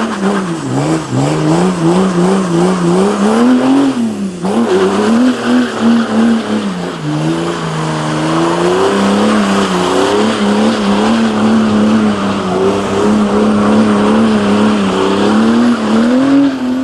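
Car engine held at high revs for a long burnout, its pitch bobbing up and down, with a brief dip about four seconds in, over a steady hiss and squeal of spinning tyres.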